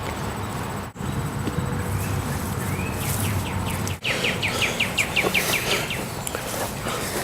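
Outdoor ambience with a small songbird calling: a few scattered chirps, then about four seconds in a rapid run of falling chirps, roughly five a second. The sound cuts out briefly twice.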